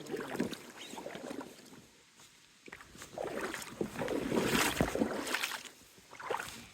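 Water splashing and sloshing against a small boat, with a few light knocks; it swells louder about three seconds in.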